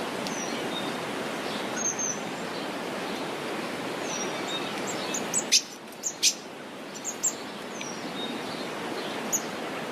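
Small birds chirping, short high calls, several dropping in pitch, over a steady rushing background noise. A few sharp, louder chirps come a little past halfway, as the rushing briefly drops away.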